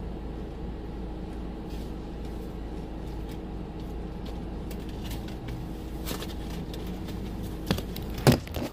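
Steady hum inside a parked car with the engine idling, then a few knocks near the end and one loud thump.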